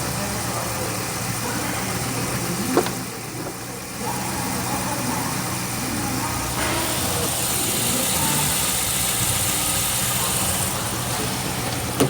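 Holden Commodore 6.2-litre V8 engine running at a steady idle, with a sharp click about three seconds in and a slight rise in level around seven seconds.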